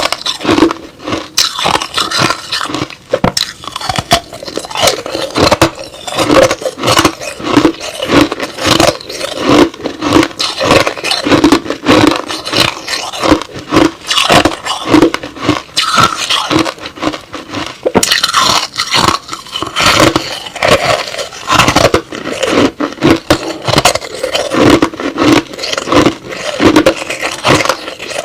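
Close-miked chewing and crunching of crushed-ice slush, crackly and wet, in a steady rhythm of about two chews a second.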